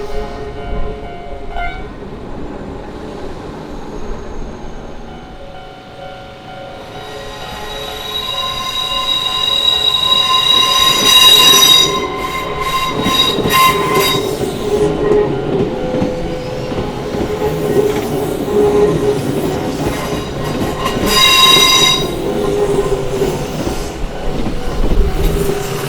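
A train passing through a level crossing while the crossing alarm keeps ringing. From about eight seconds in, a high steady squeal of steel wheels on the rails builds and is loudest about ten to fourteen seconds in, then rises again briefly near the end.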